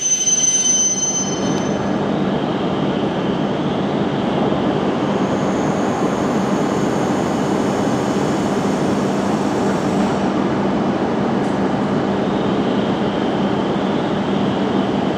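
Shinkansen train at the platform: a high brake squeal fades out about a second and a half in, then a steady, loud rumble with a low hum.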